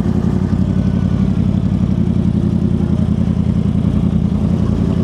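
Motorcycle engine idling steadily, a fast, even pulsing beat.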